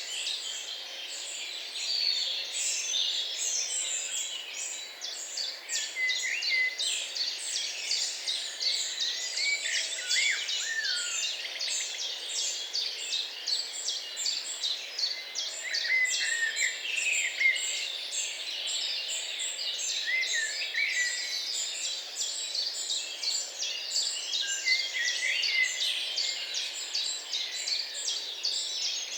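A chorus of several songbirds singing together, a dense run of quick overlapping chirps with whistled phrases sliding up and down.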